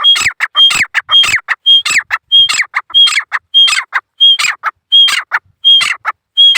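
Grey francolin (gora teetar) calling, a loud, shrill phrase repeated about every 0.6 seconds, each a high whistled note followed by a falling note and quick clicks.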